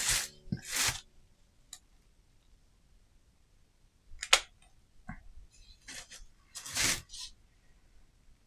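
Short clicks and rustles of hands working a hot glue gun and small craft pieces: about five brief bursts, with quiet gaps between them.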